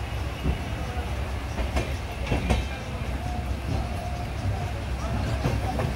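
Express passenger train rolling along the track: a steady low rumble of wheels on rail with several sharp clicks, the clearest about two seconds in, as the wheels pass over rail joints.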